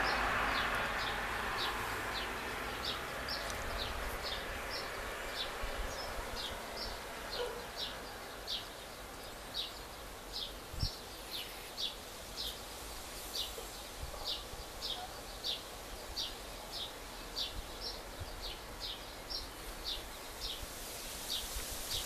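A bird repeating one short high call over and over, about three calls every two seconds, over a low steady hum of distant road traffic. A passing car fades away in the first few seconds.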